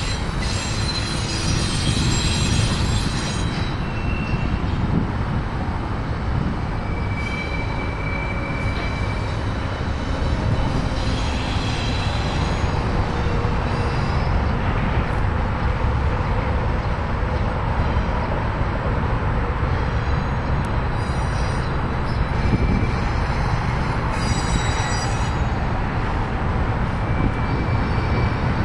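Union Pacific double-stack container train rolling past, a steady rumble of wheels on rail. Intermittent high-pitched steady squeals come from the wheels as the train takes the connecting track between the two lines.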